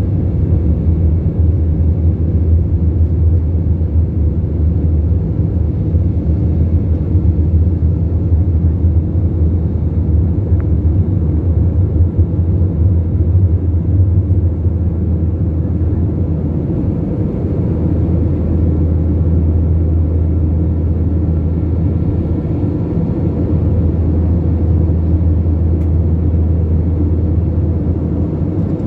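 Steady low rumble of an Airbus A321 airliner's jet engines, heard inside the cabin.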